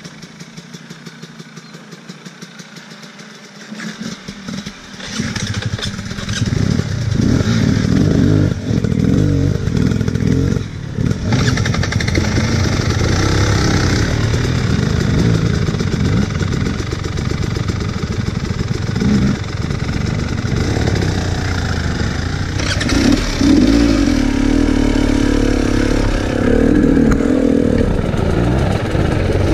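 Enduro dirt bike engine idling with an even low pulse, then revved up about four seconds in and running hard, the throttle rising and falling as it climbs a rough trail.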